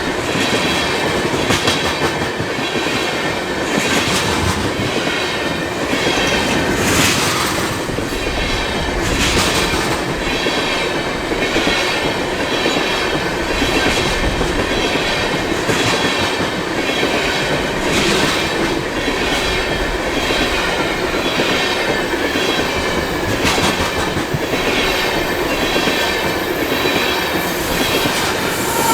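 A long empty oil train of tank cars rolling past at track speed: a steady rumble of wheels with repeated clacks over the rail joints and a high ringing wheel squeal throughout.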